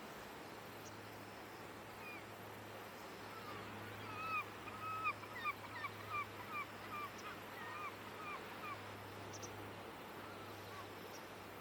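Common greenshank calling: a single faint whistle, then a quick run of about a dozen short, down-slurred whistled notes lasting about five seconds. A low steady hum lies underneath.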